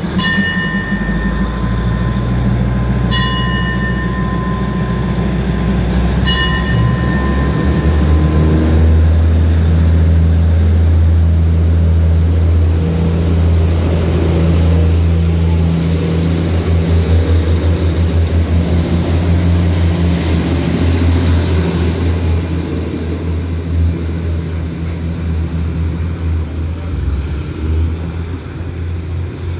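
A church bell strikes three times, about three seconds apart, each stroke ringing on, over the steady low engine rumble of a diesel passenger train. The train then pulls out and passes close by, its engine noise swelling and then easing off as it moves away.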